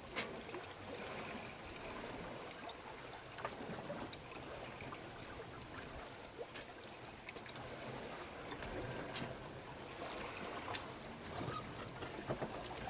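Water trickling and lapping against the hull of a becalmed sailboat rolling in the swell, with scattered faint clicks.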